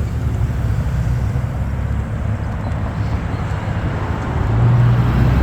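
Low wind and road rumble while riding an e-bike, steady at first and growing louder about four and a half seconds in.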